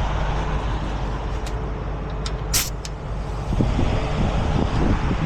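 Truck engine idling steadily, with a short sharp hiss of compressed air about two and a half seconds in and a few light clicks around it.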